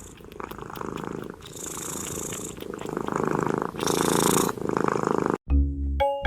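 A domestic cat purring close to the microphone: a fast, even rumble that swells and eases in turn with its breaths. About five seconds in it cuts off and light mallet-percussion music begins.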